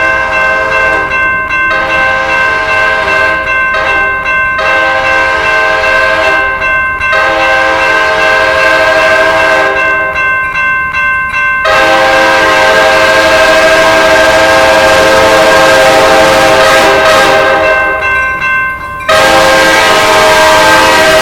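Amtrak train's multi-note air horn sounding a chord in a run of long blasts with short breaks, then one blast held for about seven seconds, and another starting near the end.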